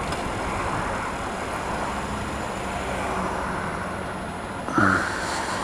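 Honda CBF 125's single-cylinder four-stroke engine running steadily under wind and road noise while the motorcycle is ridden. A short voice sound breaks in near the end.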